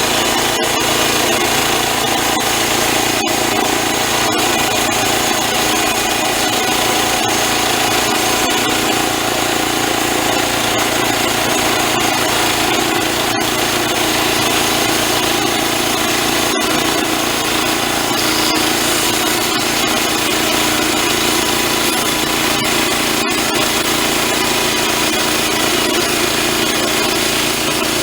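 Band sawmill running steadily through a cut, its blade sawing through a log with the machine's drive running underneath at a constant pitch.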